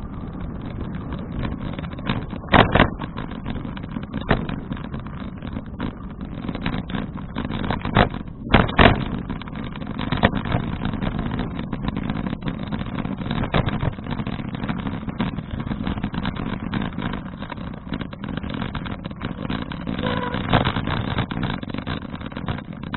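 Wind buffeting an action camera's microphone over the rumble of a folding bicycle's tyres on the road while riding, with two sharp knocks about three seconds in and again near nine seconds.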